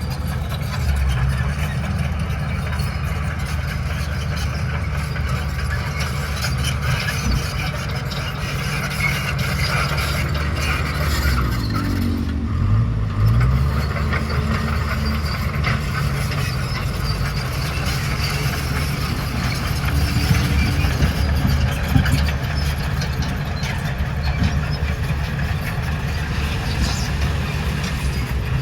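Bulldozer's diesel engine running under load, with a dense rattle over it. About halfway through, the engine note drops and then climbs back up.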